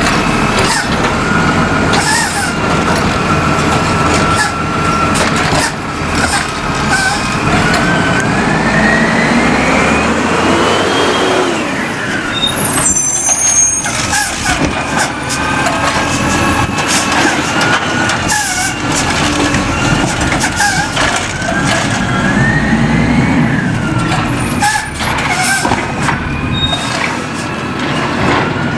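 Recycling truck engine running with its hydraulics working, broken by repeated short air-brake hisses. A whine rises in pitch from about 8 to 11 seconds in.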